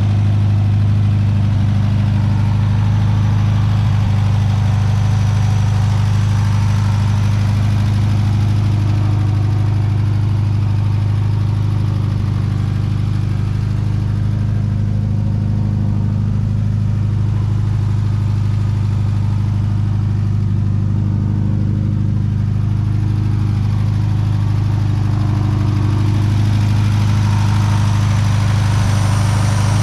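1972 VW Super Beetle's air-cooled flat-four engine idling steadily, a low even hum.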